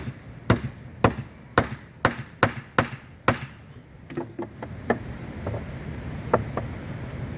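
Hammer blows on wood, a run of sharp strikes about two a second, then a few lighter, more spaced knocks. A low steady rumble comes up in the second half.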